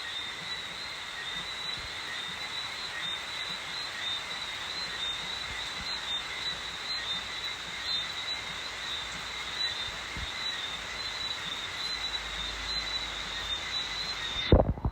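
Night chorus of tropical frogs calling steadily in high, pulsing notes over an even hiss. Near the end there are a couple of loud knocks, and then the sound cuts off suddenly.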